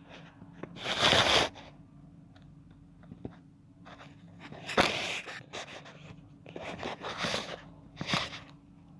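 Crunching, rustling noise in four short bursts, the loudest about a second in and about five seconds in.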